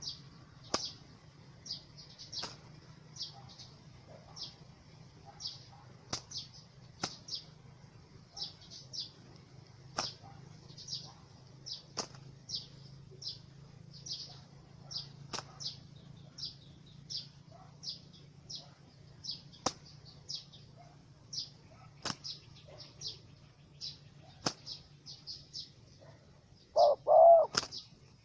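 Small bird chirping with short high notes about twice a second, with sharp clicks every second or two. Near the end comes a louder, lower sound lasting about a second.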